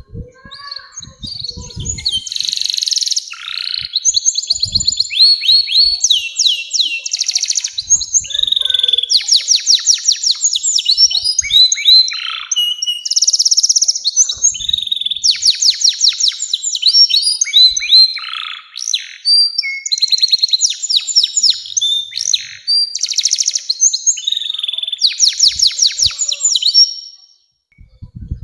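Domestic canary singing a long, continuous song of fast rolling trills and rapidly repeated chirps, phrase after phrase with only brief pauses, breaking off near the end.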